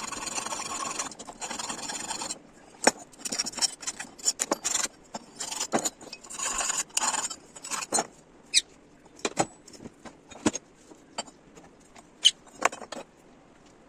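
A hand file rasping on metal in two quick runs of strokes that stop after about two seconds, followed by short scrapes and scattered sharp metallic clicks and taps of parts being handled, thinning out toward the end.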